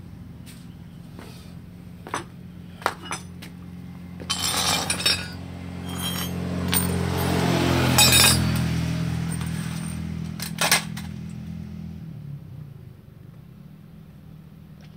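Metal engine parts clinking and knocking as they are handled. Under the clinks a motor vehicle's engine runs, growing louder to a peak about eight seconds in, then fading and stopping about twelve seconds in.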